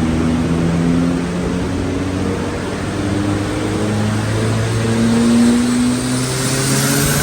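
Lada 2105's turbocharged 1.8-litre eight-valve four-cylinder engine running loud, its pitch shifting up and down as it revs.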